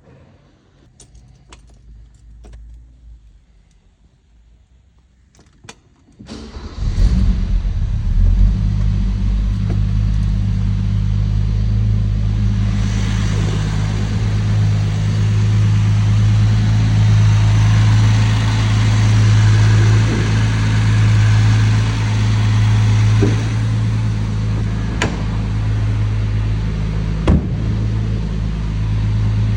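A few light clicks and key jingles, then about six seconds in an old Mercedes-Benz 230's engine starts and settles into a steady idle.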